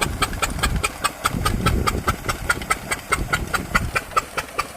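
12 hp single-cylinder diesel pump-set engine running steadily, with an even knock of about five beats a second over a low rumble that thins out near the end.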